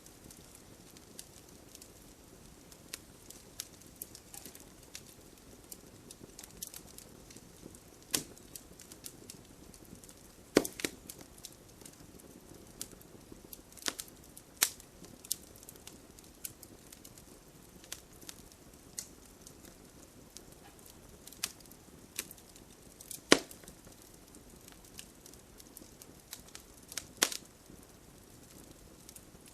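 Campfire burning: irregular crackles and sharp pops of burning wood over a soft steady hiss of flame, with a few louder snaps, one about ten seconds in and the loudest about twenty-three seconds in.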